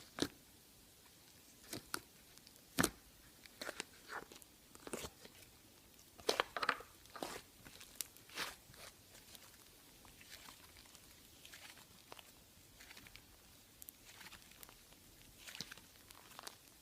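Soft modelling putty (slime or clay) squeezed and pulled by hand, giving irregular crunchy crackles and sharp pops, most of them in the first half and sparser after about ten seconds.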